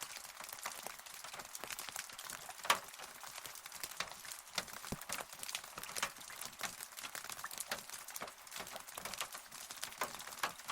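Rain falling, with many separate drops striking close by over a steady hiss of rainfall. One drop hits noticeably louder about two and a half seconds in. There is no thunder.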